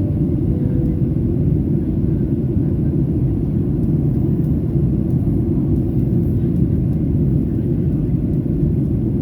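Steady low cabin rumble of a Boeing 737-800 in flight, its jet engines and the airflow along the fuselage heard from a window seat inside the cabin.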